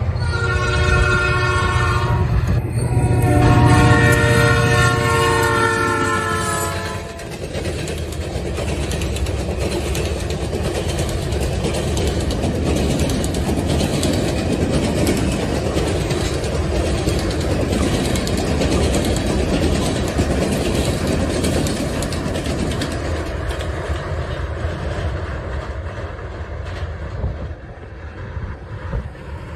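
Diesel freight locomotive's air horn sounds a short blast and then a longer one of several tones together. After the horn stops, a string of covered hopper cars rolls steadily over a steel truss bridge, the wheels clicking over the rail joints.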